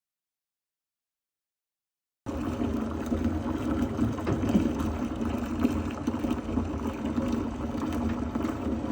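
Complete silence for about two seconds, then bathwater running and sloshing in a tub as a steady rush.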